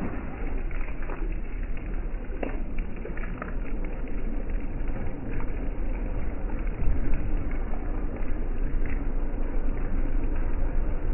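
Steady rain, with a constant low rumble underneath and scattered light taps.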